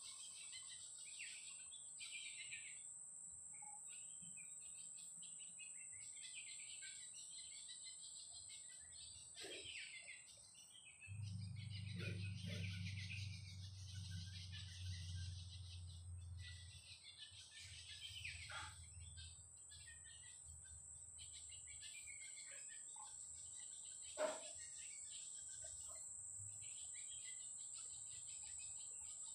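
Faint chorus of bird chirps and calls over a steady high-pitched insect drone. A low rumble sets in about eleven seconds in and fades over several seconds, and one sharp, loud sound stands out about twenty-four seconds in.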